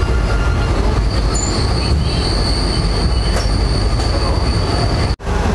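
Passenger train running at speed, heard from inside a chair-car coach: a steady heavy rumble with a thin, steady high-pitched wheel squeal from about a second in. The sound drops out abruptly for a moment near the end.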